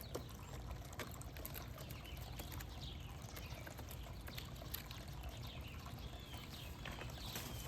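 Backyard birds calling with many short, scattered chirps, with occasional sharp clicks over a steady low rumble.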